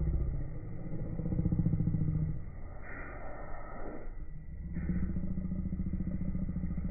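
Beko washing machine running a wash cycle: the motor drones as the drum turns, stops briefly about four seconds in, then starts turning again.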